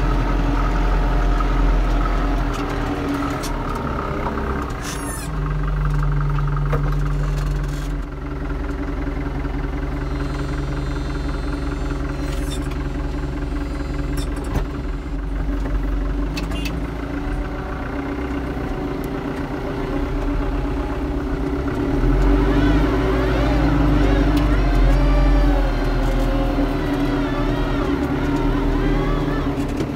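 Farm tractor diesel engine running steadily under load. Its note swells louder twice, briefly a few seconds in and again for a few seconds in the last third, when a wavering higher whine rises over it.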